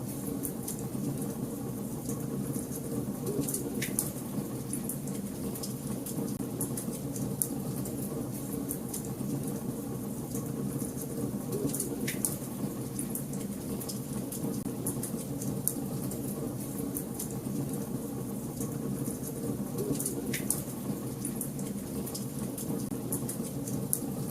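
Fireplace fire crackling, with a constant patter of small pops over a steady low rush and three louder snaps spaced several seconds apart.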